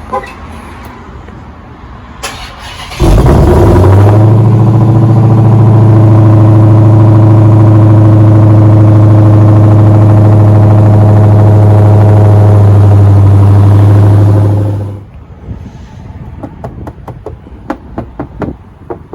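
Dodge Challenger SRT Hellcat Redeye's supercharged V8 cold-started by remote auto start: it fires suddenly about three seconds in and settles into a loud, steady high idle. Its sound drops away sharply about fifteen seconds in, followed by a run of light taps.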